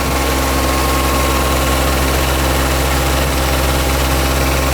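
Yanmar Ee214 combine harvester's engine running steadily at an even speed.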